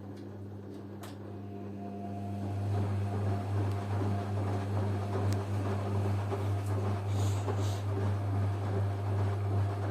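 Washing machine running with a steady low hum; about two seconds in a rushing, churning noise builds up and carries on, then cuts off suddenly.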